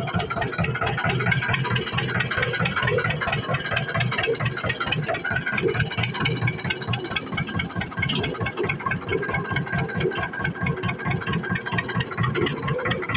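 1989 HMT 2511 tractor's diesel engine running steadily with a fast, even chugging, working under full load pulling a seven-tine cultivator.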